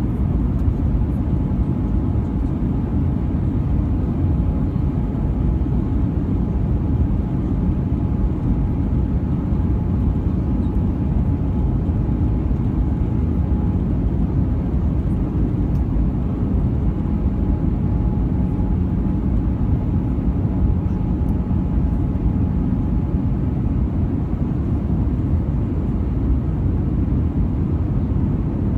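Steady cabin noise inside an Airbus A320-214 in flight: the low rumble of its CFM56 turbofan engines and the airflow over the fuselage, with a faint steady tone running through it.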